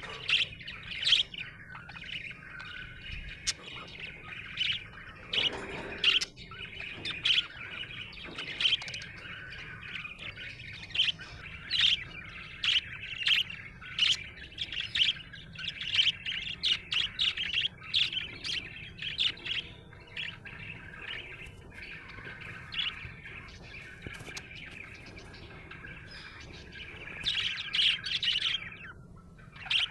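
Budgerigar chirping and chattering: a busy run of short, sharp chirps over a softer continuous warble, the contented chatter of a happy budgie.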